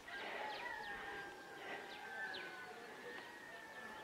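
Faint bird chirps, short quick notes scattered throughout, over a thin steady high tone.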